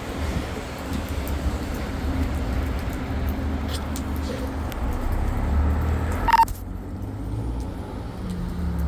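Road traffic on a rainy street: a steady low rumble of vehicles with a hiss over it. About six seconds in comes one short, sharp, high beep.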